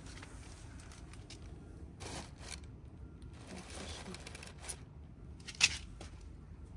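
Dry paper being torn and handled, with scattered scrapes and rustles, and one sharp click a little over five seconds in.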